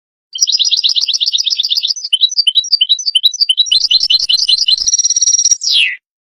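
European goldfinch singing one song phrase: a fast run of repeated chattering notes, then a string of rising twitters, then a buzzy held note that ends in a falling slur.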